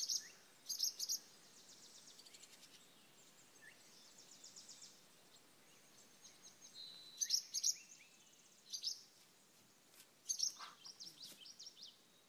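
Songbirds chirping in short clusters of high calls, with a faint rapid trill between them.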